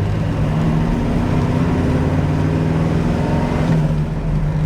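Pontiac 455 V8 with headers running under way, heard from inside the car's cabin: a steady engine note that dips and changes pitch briefly near the end, as with a gear change on the 4-speed manual.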